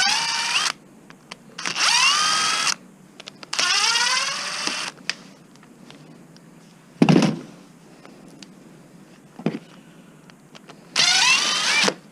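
Power drill run in four short bursts of about a second each, its motor whine rising in pitch as it spins up and then holding. A single heavy clunk comes between the second and last bursts, and a lighter knock shortly after.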